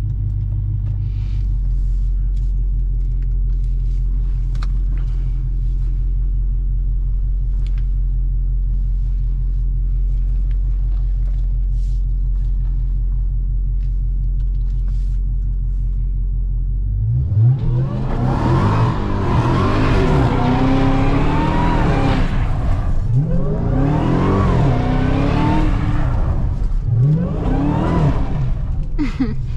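Hellcat Redeye's supercharged 6.2-litre HEMI V8 idling with a steady low rumble. About seventeen seconds in it breaks into hard revving that rises and falls several times, with tyre noise, as the car is slid around.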